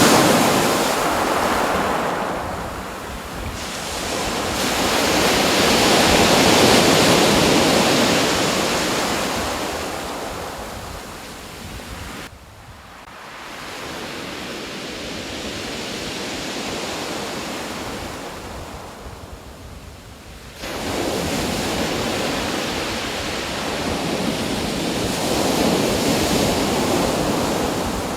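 Ocean surf washing onto a shore in slow surges that swell and fade every few seconds. One surge comes in abruptly about two-thirds of the way through.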